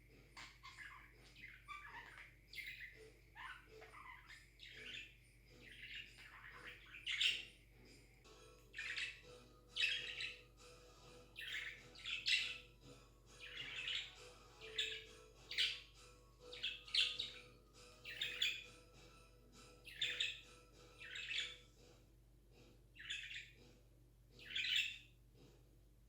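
Pet budgie chirping: soft warbling chatter at first, then, from about a quarter of the way in, loud short chirps repeated about once a second.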